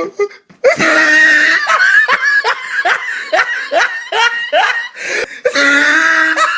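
People laughing loudly in a run of quick bursts, with a held shout about a second in and another near the end.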